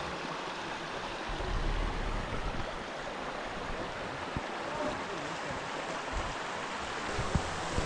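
Steady rush of a flowing creek or river, with a few soft low knocks.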